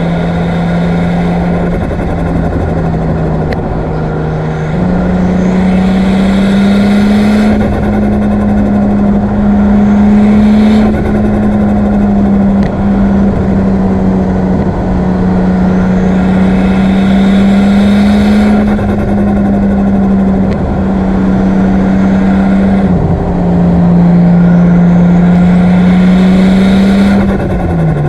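Nissan Skyline R34's single-turbo RB25DET Neo straight-six under way at fairly steady revs. The engine note steps up in pitch about five seconds in and drops twice near the end, with a hiss swelling and fading every few seconds.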